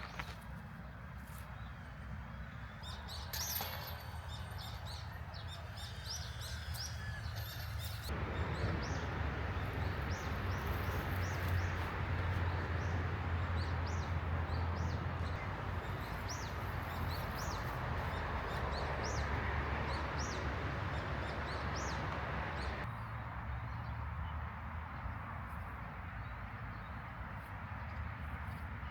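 Birds chirping, many short high calls, over a steady outdoor background noise that swells about 8 seconds in and drops back about 23 seconds in.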